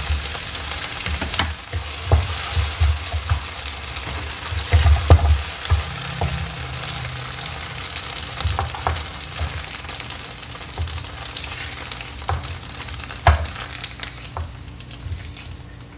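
Strips of firm pressed tofu sizzling in hot oil in a nonstick wok, stirred and scooped with a wooden spatula that knocks against the pan. The sizzle gets quieter near the end as the pan empties.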